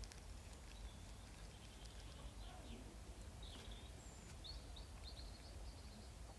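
Faint high-pitched bird chirps and short trills, several of them bunched in the second half, over a low steady rumble.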